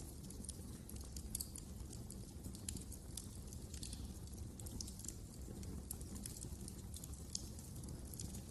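Wood fire in a fireplace crackling: irregular small sharp pops and snaps over a steady low rumble.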